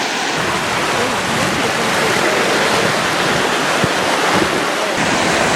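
Steady, loud rushing of water from a waterfall.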